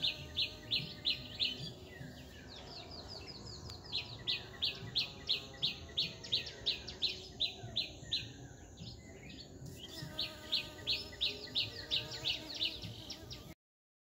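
A bird calling in rapid runs of short, high chirps, about six a second, in three runs with short breaks between them. The sound cuts off suddenly just before the end.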